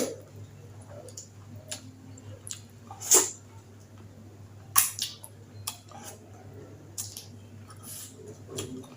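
Close-miked eating of khanom jeen rice noodles in chicken green curry: a string of short wet mouth sounds, loudest about three and five seconds in.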